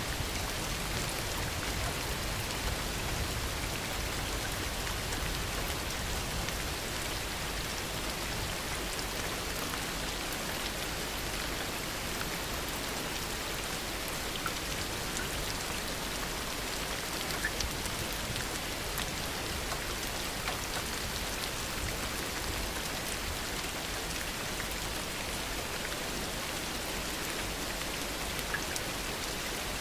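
Steady heavy rain, with individual drops pattering on surfaces; no thunder is heard.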